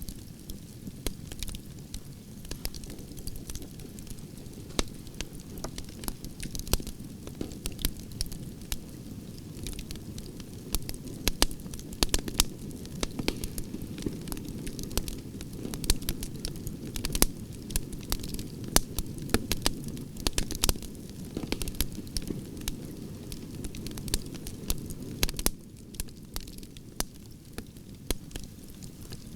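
Campfire of burning branches crackling, with many sharp snaps over a steady low rumble of the flames. The sound drops slightly in level near the end.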